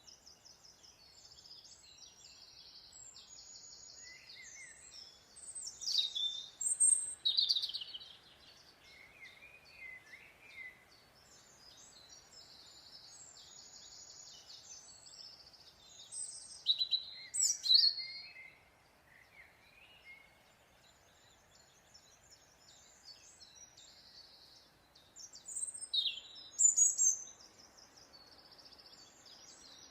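Wild birds calling: three loud bouts of sharp, sweeping chirps, about ten seconds apart, over a steady high chatter.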